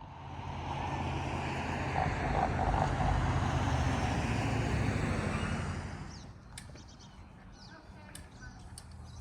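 A vehicle engine running close by and driving past, building over the first two seconds and fading away after about six. Then birds chirping over faint background noise.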